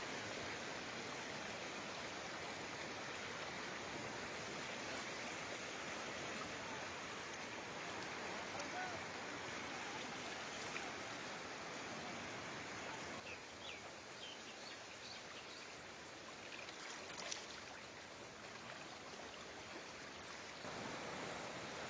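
Rushing floodwater making a steady, continuous noise. About thirteen seconds in it drops to a quieter stretch with a few faint high chirps, then rises again near the end.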